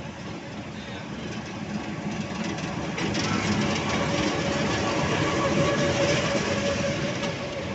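Metre-gauge passenger train arriving at a station: diesel locomotive 2319 running past, then its coaches rolling by on the rails. The rolling grows louder about three seconds in, with a steady high tone over the wheel noise.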